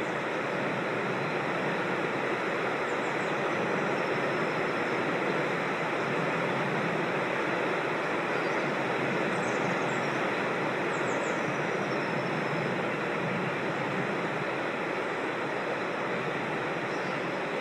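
Steady rush of a creek or small waterfall, an even roar of water. A few faint, high bird chirps that drop in pitch come through it about three seconds in and again around nine to eleven seconds in.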